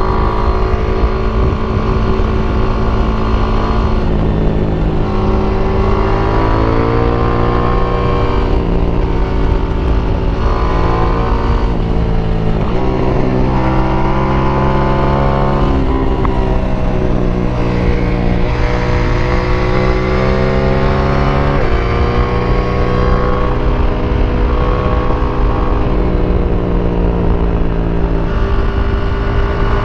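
KTM 890 Duke R's parallel-twin engine through its stock exhaust, revs rising and falling with the throttle through corners, with several abrupt pitch steps as it shifts gears.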